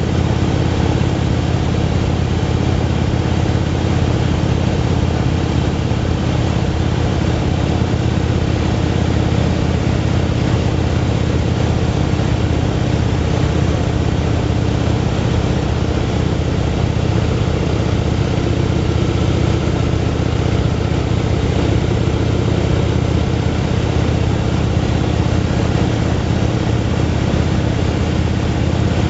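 Motorcycle engine running at a steady cruising speed, its pitch and level holding even throughout.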